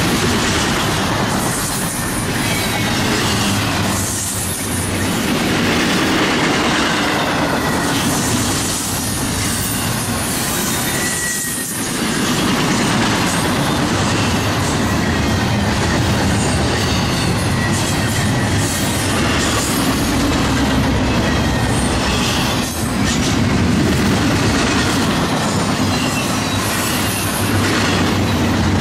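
Double-stack container train rolling past close by: a steady rumble and clatter of steel wheels on rail, dipping briefly a few times as gaps between cars go by, with a short high wheel squeal about twelve seconds in.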